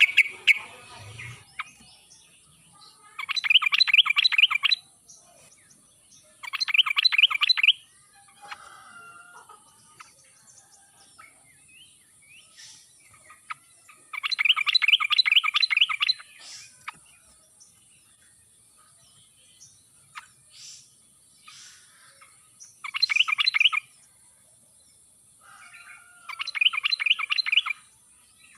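Yellow-vented bulbul (trucuk) singing: five short phrases of fast, bubbling repeated notes, each a second or two long, spread out with gaps of several seconds between them. A faint steady hiss runs underneath.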